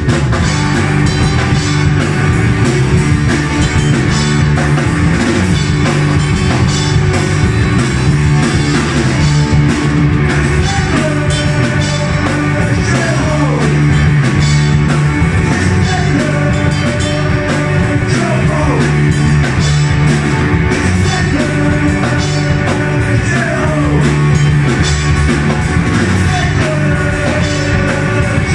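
Live rock band playing loudly: drum kit, bass and electric guitars, with singing.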